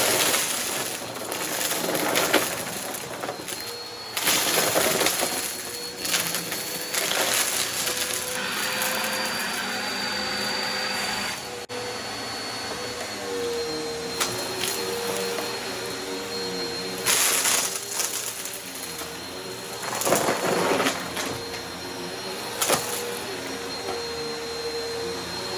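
Bissell upright vacuum cleaner running steadily with a motor whine over rugs, with repeated loud crunching bursts as it sucks up scattered dry debris from a mess test.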